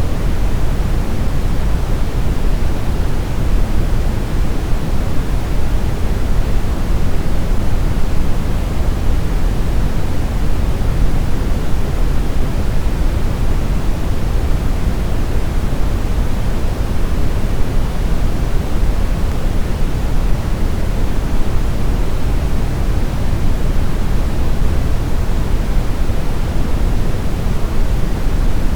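Steady brown noise: an even, deep rumbling hiss, strongest in the bass and thinning toward the treble, with no change in level.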